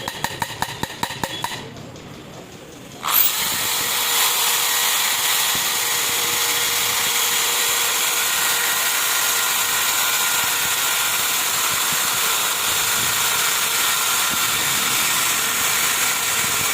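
A quick run of about a dozen sharp clicks, then, about three seconds in, a machine starts suddenly and runs on steadily with a hissing, whining noise.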